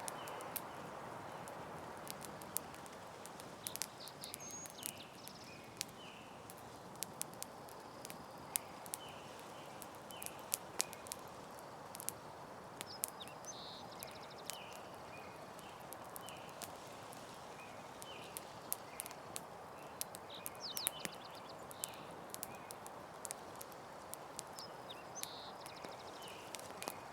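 Campfire burning with a steady hiss and frequent sharp, irregular crackles and pops, and faint high chirps now and then.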